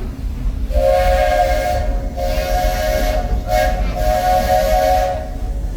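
Steam locomotive chime whistle sounding four blasts, long, long, short and long: the standard grade-crossing signal. It sounds over the low rumble of the moving train.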